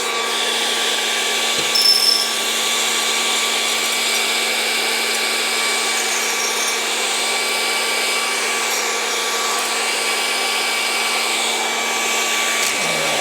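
Fresh Roast SR 800 hot-air coffee roaster's fan running steadily during the cool-down cycle, blowing air with a hum, with a short clatter about two seconds in.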